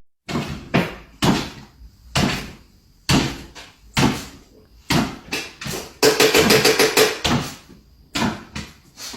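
Repeated knocking, about fifteen sharp knocks at roughly one or two a second, each ringing briefly.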